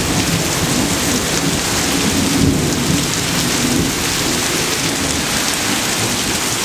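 Heavy rain pouring down steadily during a thunderstorm, with a low rumble of thunder that eases about halfway through.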